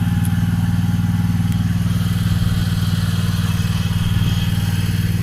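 An engine running at a steady idle: a low, even drone that does not change.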